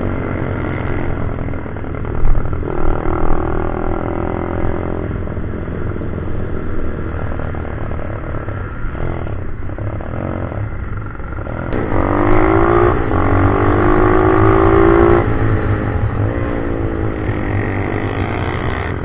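Pit bike's small single-cylinder engine being ridden hard, its pitch rising under acceleration and dropping back again and again, over a steady low rumble. The strongest pull comes about two thirds of the way in.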